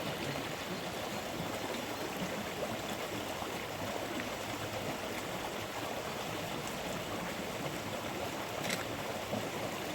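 Steady rush of running water, with a sharp tick or two near the end.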